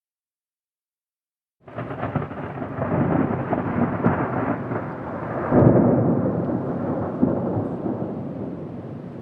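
Silence, then a rumble of thunder starts abruptly about a second and a half in. It rolls and crackles, peaks in a heavier surge around the middle, then slowly dies away.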